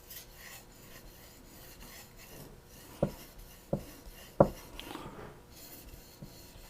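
Knife blade stroked back and forth across a wet Japanese natural whetstone, an Aoto, in quiet, even rasping strokes. About halfway through come three sharp knocks in quick succession, the last the loudest, then a brief scrape.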